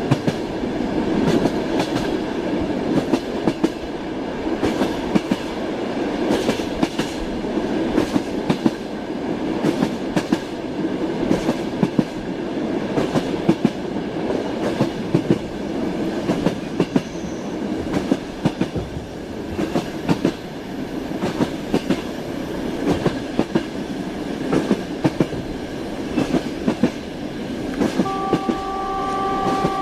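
Train wheels clattering over rail joints with a steady rolling rumble and repeated sharp clicks. A train horn begins sounding as one steady chord near the end.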